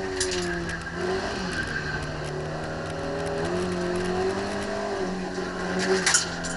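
Citroën AX GTI's 1.4-litre four-cylinder engine running hard under load, heard from inside the cabin, its pitch holding steady then stepping up and down a few times. Sharp rattling knocks come just after the start and again, loudest, about six seconds in.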